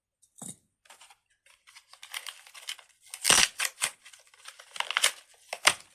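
Crinkling and rustling of something being handled close to the microphone, irregular, with several sharper, louder crackles from about three seconds in.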